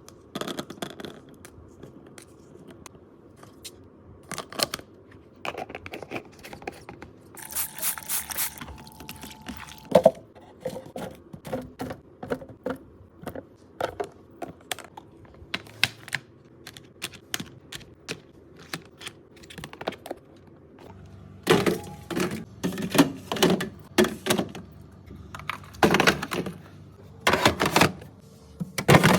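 Food containers and packages being handled and put away: a run of knocks, clicks and scrapes of containers and lids being set down and closed. There is a short hissing stretch about eight seconds in, and the knocking grows busier and louder in the last third.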